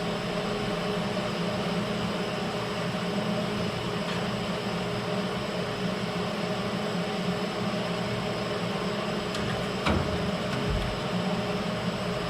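Steady mechanical hum with a constant drone, and one short sharp click about ten seconds in.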